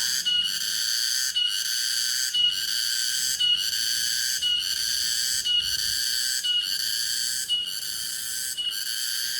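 Cicada calling: a loud, high, buzzing drone that pulses about once a second.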